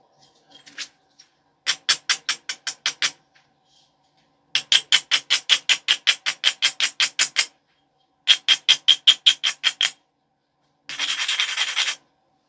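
An abrader stone rubbed quickly back and forth along the edge of a knapped stone biface, a rasping scrape of about six strokes a second in three runs, then one steady rub near the end. This is edge grinding, which strengthens the platforms before the next flakes are taken.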